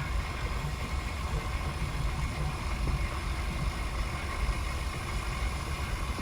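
A steady low mechanical rumble with a faint steady whine above it.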